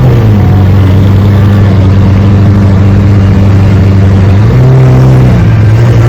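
A car engine and exhaust running loud and steady close by, with the revs lifting slightly about four and a half seconds in and settling back a second later.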